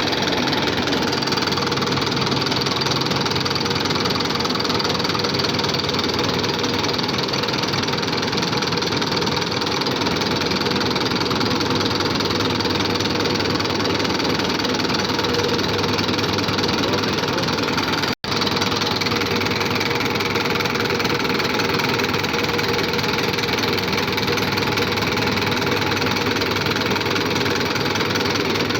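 Fiat 640 tractor diesel injection pump running steadily on a test bench during fuel-delivery and pressure setting, a continuous mechanical clatter. The sound cuts out for an instant about eighteen seconds in.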